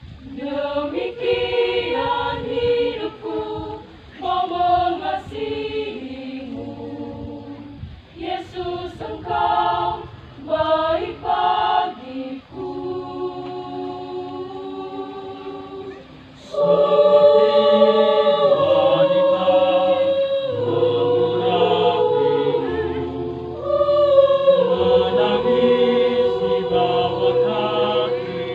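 Church choir singing a hymn in several voice parts. Short, broken-off phrases at first, then fuller sustained singing that gets louder a little past halfway.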